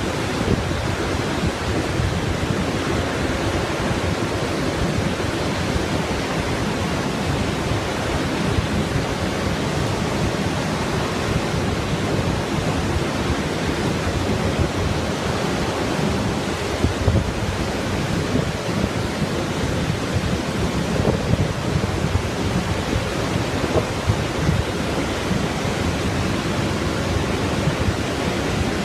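Steady, unbroken roar of Montmorency Falls, a large waterfall, with wind buffeting the microphone in low rumbles.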